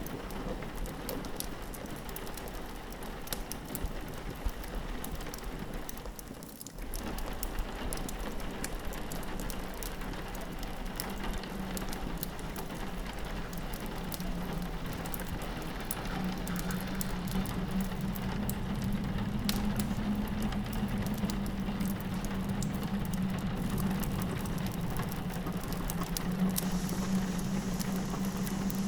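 Layered ambience of rain pattering on a window glass and a log fire crackling with many small pops, under a low steady drone of wind that grows louder past the middle. The sound briefly drops out about six and a half seconds in.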